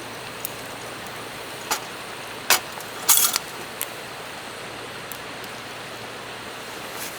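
Campfire crackling: scattered sharp pops over a steady rushing background noise, with a quick cluster of pops about three seconds in.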